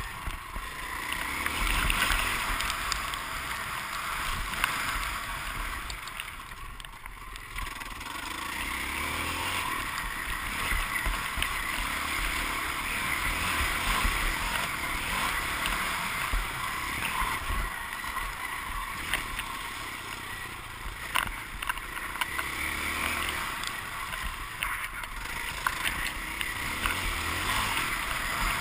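Motocross bike engine revving up and down as it is ridden hard around the track, heard from the bike; it eases off briefly about seven seconds in, then picks up again.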